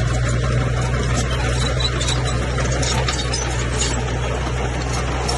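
Komatsu crawler bulldozer's diesel engine running steadily under work, with scattered high squeaks and clicks from its moving tracks.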